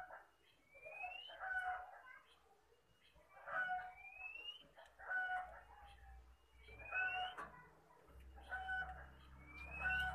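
Birds calling over and over, a short call about every second and a half, each with a rising whistle.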